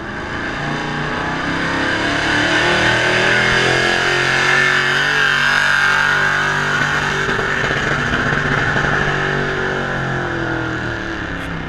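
Ford big-block V8 in a tractor-pull vehicle running hard at high revs through a pull. It gets louder over the first few seconds, holds, then eases off near the end.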